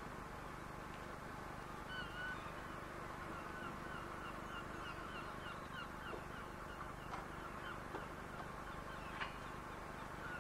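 Waterfowl honking: a run of short repeated calls, about two a second, starting about two seconds in, over a steady low hum.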